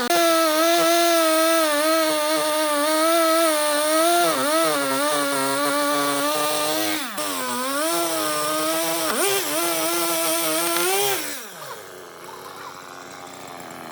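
Electric power tool working wood, its motor whining at high speed and dropping in pitch three times as it bites into the wood, then winding down with a falling pitch near the end.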